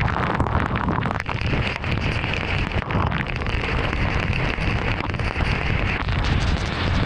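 Heavy rain hitting a moving car, many sharp drop taps over a steady wet-road hiss and low rumble; the hiss brightens from about a second in until near the end.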